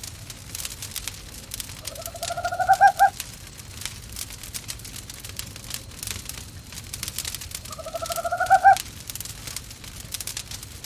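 An owl calls twice, each call about a second long, rising slightly in pitch and ending in a few quick, louder pulses. Under it runs the constant crackle and snapping of a wood fire in a fireplace.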